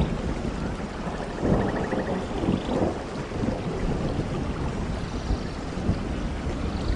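Steady rain falling in a forest, with a low rumble underneath and scattered heavier drops. Faint short high trills come through about a second in and again near the end.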